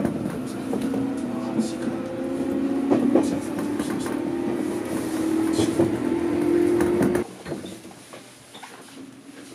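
Electric local train heard from inside the carriage, pulling away: the traction motor hum rises slowly in pitch over rumbling rail noise. About seven seconds in it drops suddenly to a much quieter cabin sound with a few light clicks.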